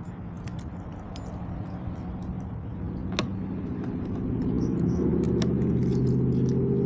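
Motorcycle engine running low and steady, growing louder from about three seconds in and then holding. There is one sharp click just after three seconds.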